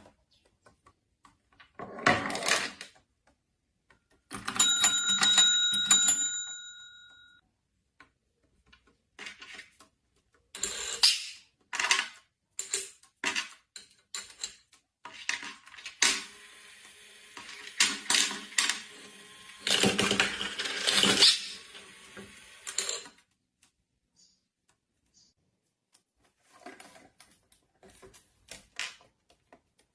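Irregular clinks and clatters of small hard objects, coming in bursts with quiet gaps, and one ringing tone about five seconds in that lasts about two seconds.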